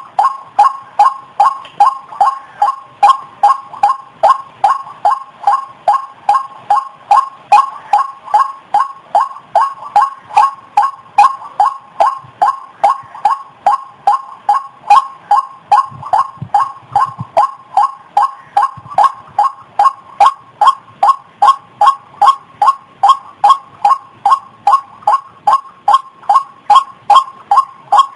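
White-breasted waterhen (ruak-ruak) giving its repeated call, short two-note calls about two a second in an unbroken, even rhythm, as used on a lure recording.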